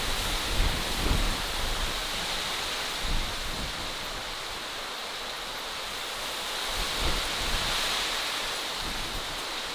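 Steady outdoor ambience: an even rushing hiss, with low rumbling swells near the start and again about seven seconds in.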